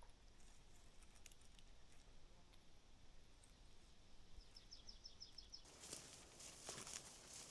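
Quiet forest ambience. About four seconds in, a bird gives a quick run of about eight short, high chirps. Then a soft rustling hiss sets in near the end.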